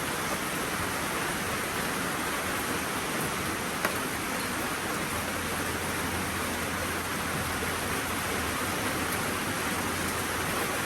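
Heavy rain falling steadily, an even hiss without a break, with one faint knock about four seconds in.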